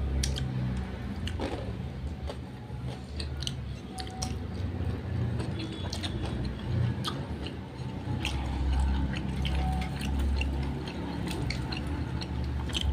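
Close-miked chewing and small wet mouth clicks of people eating fried chicken with their hands, over a low steady hum.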